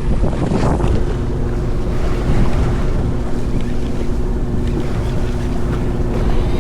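A fishing boat's engine running with a steady drone, under heavy wind buffeting on the microphone and the wash of the sea.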